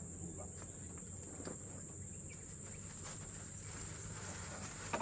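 Steady high-pitched drone of insects, crickets or cicadas, with a few faint clicks and a soft tap near the end.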